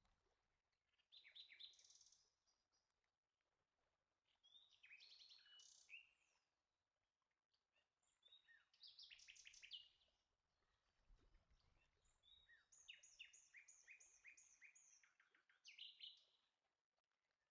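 Faint bird song: about four short phrases of quick, high chirping notes, separated by pauses, the last phrase the longest.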